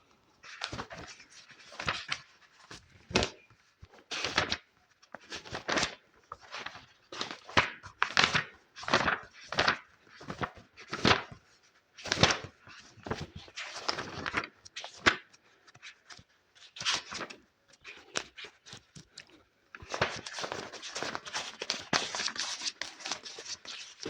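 Close-miked ASMR object sounds: a run of short, irregular scratching or rustling strokes with brief pauses between them, turning into denser, continuous rustling near the end.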